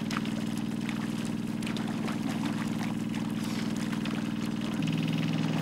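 Power tiller's small engine running steadily. Its note shifts and gets a little louder near the end.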